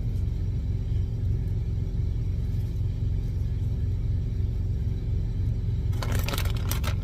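Steady low rumble of an idling truck engine. About six seconds in, a burst of crackling and clattering starts over it.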